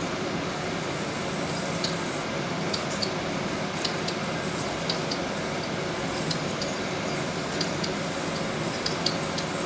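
Steady high steam hiss from the heating boiler of a 1921 Empire B30 toy steam engine as it builds pressure, with small irregular ticks and spits of sizzling water.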